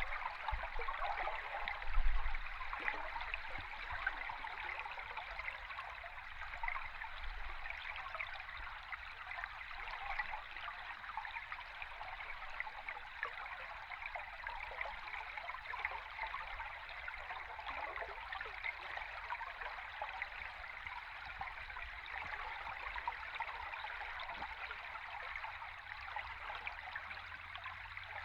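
River stream heard underwater: a steady, dense fizz of bubbles and trickling water, with a low thump about two seconds in.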